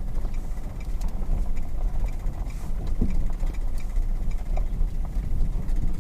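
Jeep WK2 Grand Cherokee driving, a steady low engine and road rumble with scattered light clicks and knocks.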